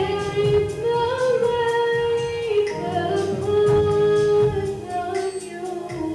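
Gospel music: a singer holding long, sliding notes over instrumental accompaniment.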